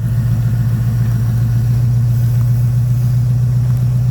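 Vehicle engine idling steadily: a loud, even low hum with a fast regular pulse.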